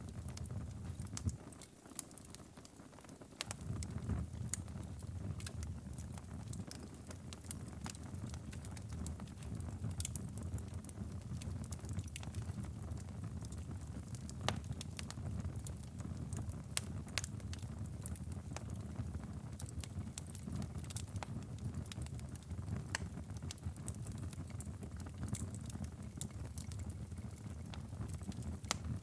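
Wood fire crackling and popping in a fireplace, irregular sharp snaps over a steady low rumble; the rumble drops away briefly about two seconds in.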